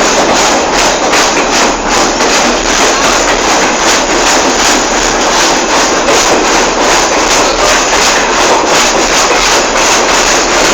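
Passenger train running along the track, heard from on board: a loud, steady rumble and rattle with rapid clicking of wheels on rails.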